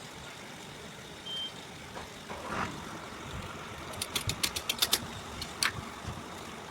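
A quick run of about nine sharp clicks or taps within a second, then one more, over steady background noise; a brief high beep sounds about a second in.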